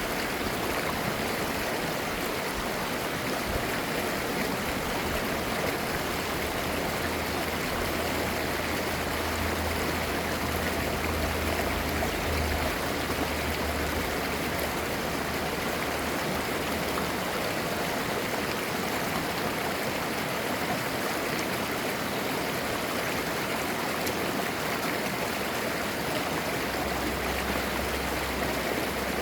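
Clear mountain-valley stream babbling over rocks in a steady, unbroken rush of flowing water.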